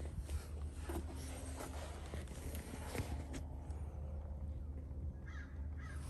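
Scattered light knocks of a horse's hooves as it shifts its feet, over a steady low hum.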